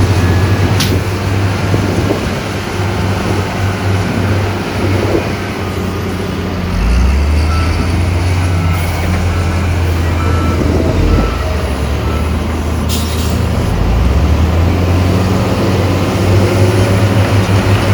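Heavy diesel construction machinery, dump truck and bulldozer, running steadily at a sand fill, the engine note shifting a couple of times. A run of short high beeps comes in the middle, and a short hiss about three-quarters of the way in.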